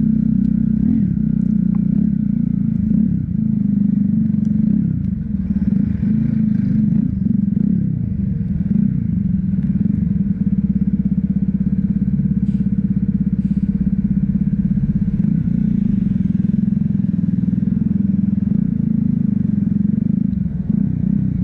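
Motorcycle engine running steadily while being ridden, with a few light clicks and rattles about two-thirds of the way through.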